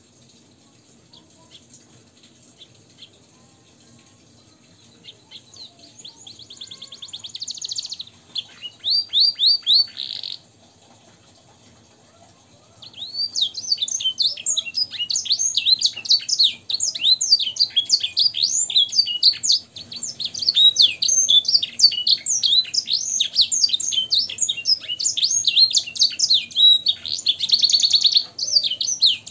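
Domestic canary singing high and fast: a few short trilled phrases, a pause of a couple of seconds, then an unbroken run of quick, varied notes and trills. The song is filled with phrases learned from blackthroat and edel sanger songbirds.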